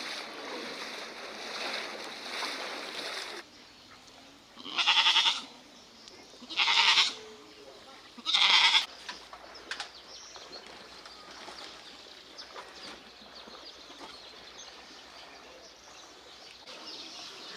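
A goat bleating three times, each call about half a second long and a second and a half or so apart.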